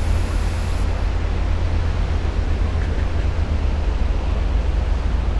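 Steady, loud rumble of wind buffeting the microphone, over the even wash of sea surf.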